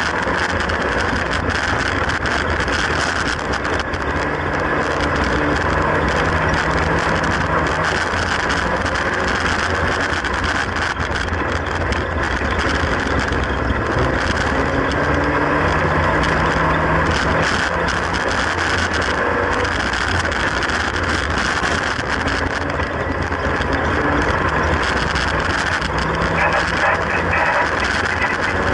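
Classic Mini oval racing car's engine heard from inside the stripped cockpit, running hard while racing, its pitch rising and falling every few seconds as the driver accelerates and backs off, over a steady wash of road and wind noise.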